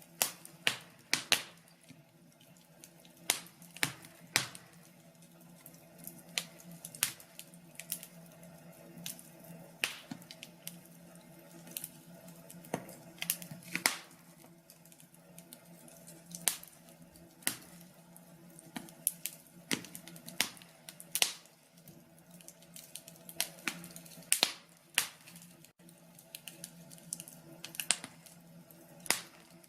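Wood fire in a fireplace crackling: sharp, irregular pops and snaps, sometimes several in quick succession, over a faint steady low hum.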